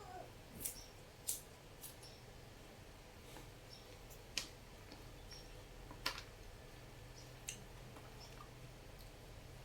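Faint, irregular clicks and taps, about six of them, over a low steady hum.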